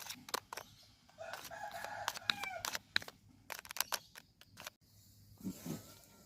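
A rooster crowing once, a drawn-out call that drops in pitch at its end, starting about a second in. Sharp clicks and taps sound throughout, with a short lower sound near the end.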